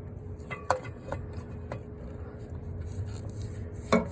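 A few light clicks and taps of hand tools or parts being handled during repair work, with a louder knock near the end, over a steady low hum.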